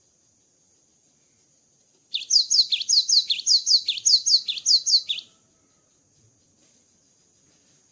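Cinereous tit (gelatik batu) singing: one rapid phrase of about three seconds, starting about two seconds in, made of sharp notes repeated about four times a second, each falling in pitch.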